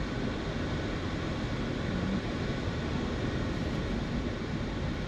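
Steady car driving noise, engine and tyre rumble heavy in the low end, with no distinct events.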